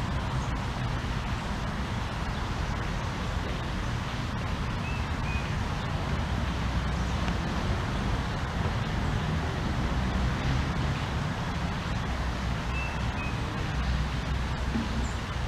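Steady low rumble of distant road traffic, with two faint, brief bird chirps, one about five seconds in and one near the end.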